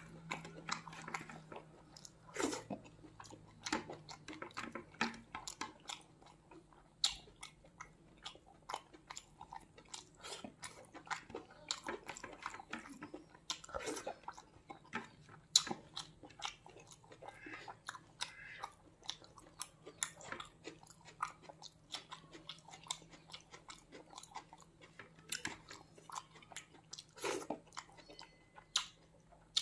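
Close-miked chewing and mouth sounds of a man eating chicken liver and rice by hand: irregular clicks and smacks, several a second.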